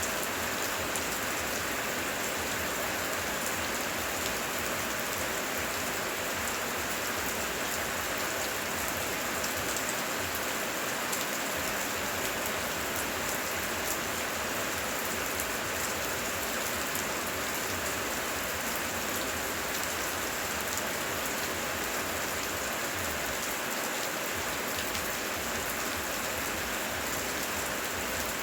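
Steady heavy rain, a dense even hiss of drops with fine scattered patter and no thunder.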